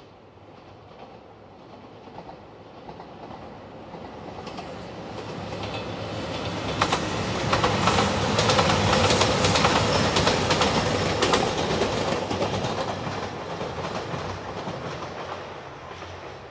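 JR Shikoku 2700 series diesel limited express passing: engine noise and wheels clattering over rail joints. It builds gradually, is loudest with rapid clicks about seven to eleven seconds in, then fades away.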